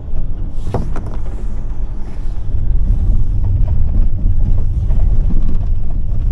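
Loud, steady low rumble, with a few faint knocks through it, growing louder about halfway through.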